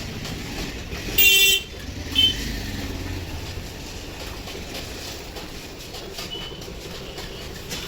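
A vehicle horn honks twice: a toot of about half a second a little over a second in, and a shorter one about a second later, over steady low traffic noise.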